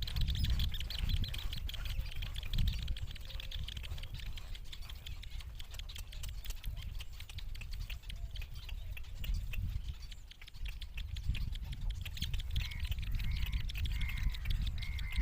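Young fish-eating birds calling: rapid chattering and squawks, then a run of short repeated call notes near the end, over a low rumble.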